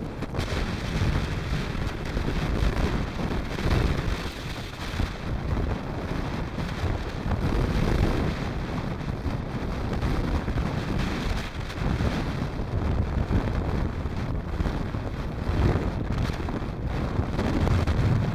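Blizzard wind gusting hard across the microphone: a heavy, low, rumbling rush that swells and eases every second or so.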